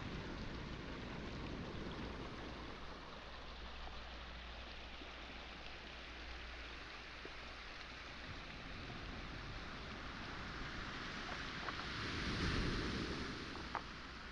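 Small waves washing onto a pebble beach, a steady hiss of surf with one wave swelling and breaking about twelve seconds in. A couple of sharp clicks of stones near the end.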